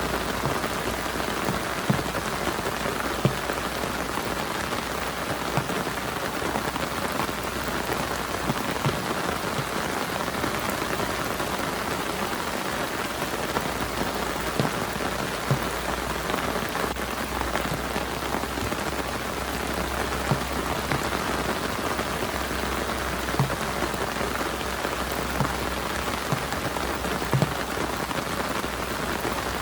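Heavy rain falling steadily, with louder single drops striking close by every second or two.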